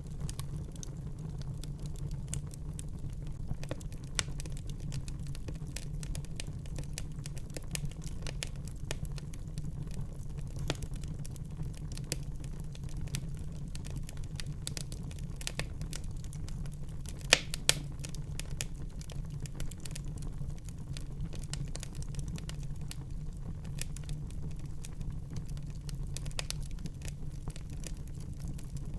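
Wood fire burning in a fireplace, crackling steadily over a low rumble of flame, with two louder pops a little past halfway.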